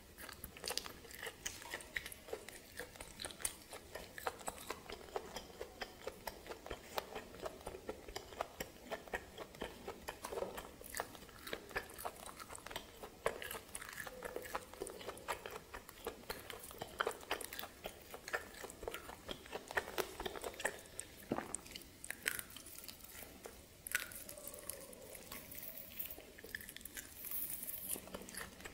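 Chewing and biting on steamed snake meat: a continuous, irregular run of small crunches and clicks from the mouth.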